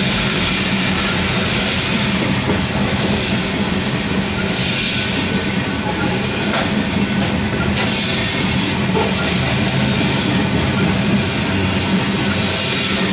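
Freight train of covered hopper cars rolling steadily past at a grade crossing, its wheels clacking over the rail joints under a continuous rumble.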